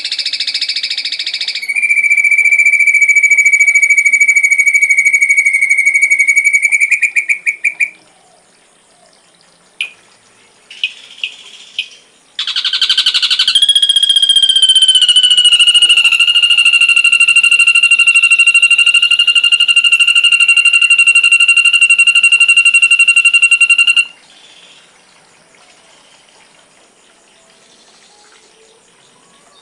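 Bird-call tutor recording: a loud, steady whistle-like tone held for about five seconds that breaks into a rapid stutter, a few short chirps, then a higher whistle-like tone held for about ten seconds that cuts off suddenly.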